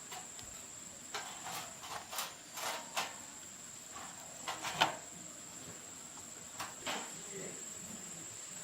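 Irregular light clicks and taps, one sharper knock about five seconds in, over a thin steady high-pitched tone.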